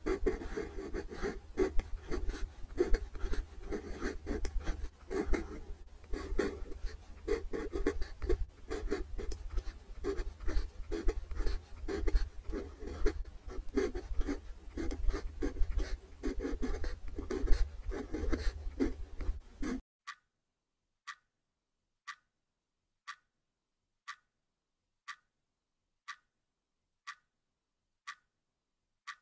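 Pen scratching on paper in close-up as cursive letters are written, with a low hum underneath. About twenty seconds in it cuts off suddenly, and a clock ticks steadily about once a second.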